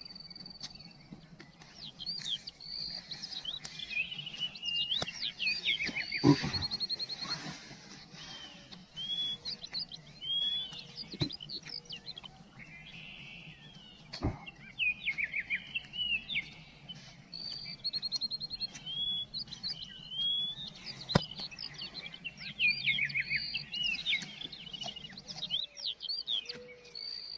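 Forest birds singing and calling throughout: repeated short upswept chirps and quick rattling trills from several birds. A few sharp knocks sound now and then.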